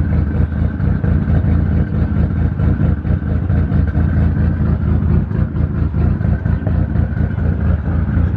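Car engine running at idle close by, a loud, steady low exhaust rumble with a fast pulsing beat and no revving.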